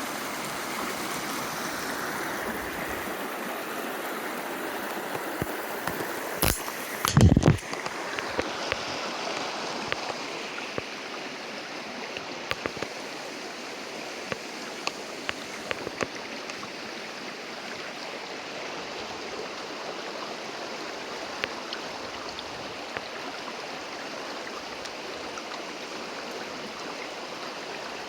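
Creek water flowing and splashing steadily over rocks. About seven seconds in, a brief cluster of loud bumps stands out above the water.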